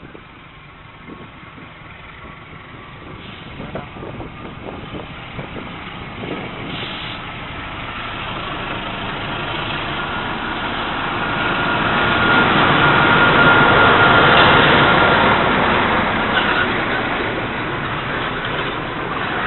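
A KAI CC 206 diesel-electric locomotive approaching and passing close by, its engine growing steadily louder to a peak about two-thirds of the way through. Loaded fuel tank wagons then roll past on the rails, with a thin steady whine over the passing.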